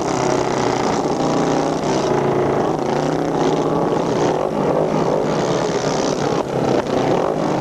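Several motorcycle engines running at once on the track, their overlapping drones rising and falling as the riders work the throttles.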